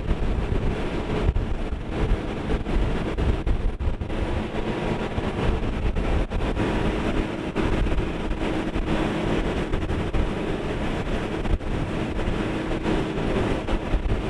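Wind buffets the microphone over the rush of water and the steady drone of a jet-drive fishing boat's engine running under way.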